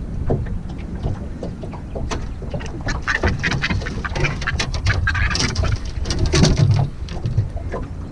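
A hooked bird that has swallowed the baited hook calls repeatedly in quacking, duck-like calls. A dense run of short sharp sounds from about three to seven seconds in is the loudest part.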